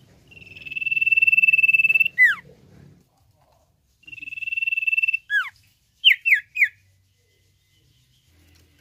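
Common iora (cipoh) singing. A long, steady high whistle of about two seconds ends in a quick falling note. A second, shorter whistle also ends with a falling note, and then come three quick falling notes.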